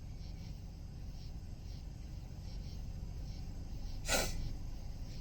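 A man's short, sharp sniff about four seconds in, over a steady low hum.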